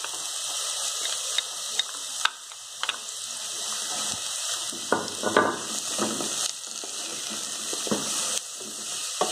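Chopped onion and garlic sizzling in olive oil in an aluminium pot, with a steady hiss. A wooden spoon taps and scrapes against the pot at intervals as the mixture is stirred, most busily about halfway through.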